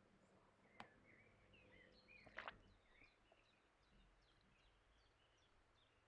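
Near silence with faint bird chirping in the background, broken by two sharp clicks, one just under a second in and a louder one about two and a half seconds in.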